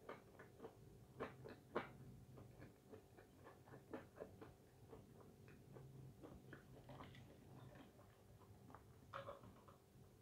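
Faint close-up chewing of fast food with the mouth closed: soft, irregular wet clicks and smacks, several a second.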